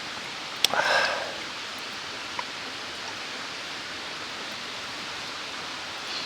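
Steady rushing of a mountain stream. A little over half a second in there is a sharp click, followed at once by a short louder sound.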